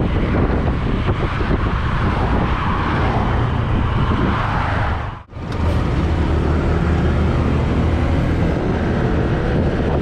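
Strong wind buffeting the microphone over the running engine and road noise of a 2018 Honda PCX150 scooter's single-cylinder engine under way. The sound cuts out for an instant about halfway through.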